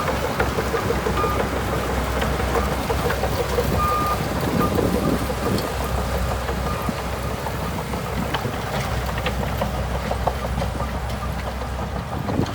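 Shantui DH17C2 bulldozer at work, its diesel engine running steadily with a constant low hum under clattering and scraping. A few brief high beeps sound in the first half.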